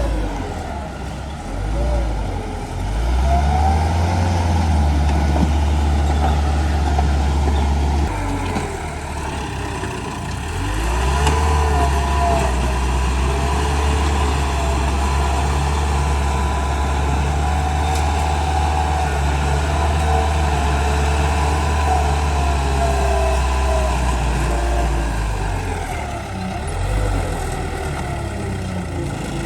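Bulldozer's diesel engine working under load, loud from about three seconds in, easing for a couple of seconds near the middle and again near the end, with wavering squeals over the rumble.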